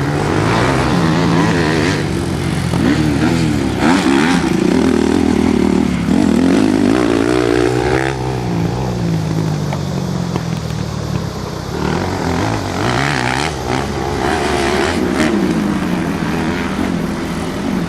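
Motocross motorcycle engines revving around a dirt track, the pitch rising and falling again and again with throttle and gear changes, at times more than one engine heard at once.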